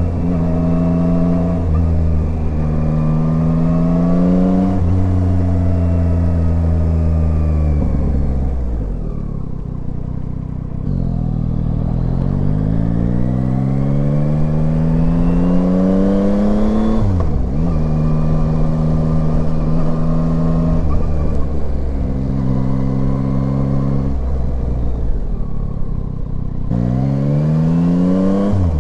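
Yamaha Tracer 9 motorcycle's inline-three engine on the move: it eases off and drops in pitch a third of the way in, then pulls up in long rising sweeps, with a quick dip at each gear change and a couple of steady cruising stretches between.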